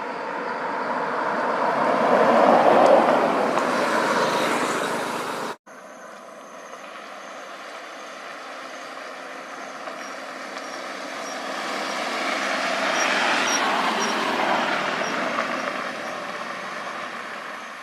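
Vehicle driving noise, an even rushing sound that swells and fades twice, broken by a sudden cut about five and a half seconds in.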